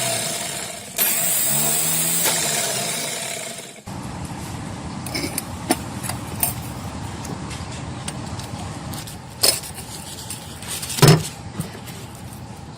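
Restored electric starter motor of a 35 hp engine spinning freely under power on a bench test: a loud, high whirr that stops briefly about a second in, starts again and cuts off about four seconds in. A few sharp knocks follow later.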